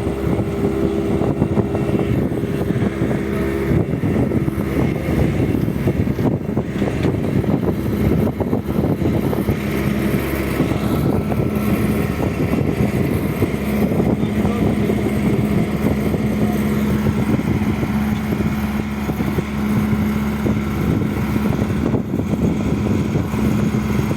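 Bobcat skid-steer loader's diesel engine running steadily, its engine note shifting about four seconds in.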